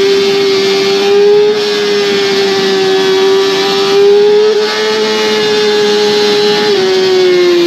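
Yamaha R6's inline-four engine running at high revs, its pitch held nearly steady with small rises and dips, then falling as the throttle eases off near the end.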